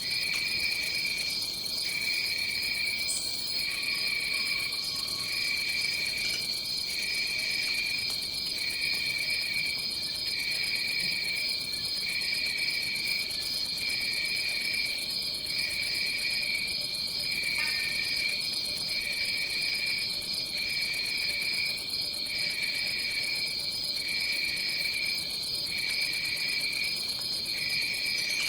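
Tropical forest insect chorus: a continuous high, finely pulsed trill, with a lower chirping layer that pulses on and off about once every second and a bit.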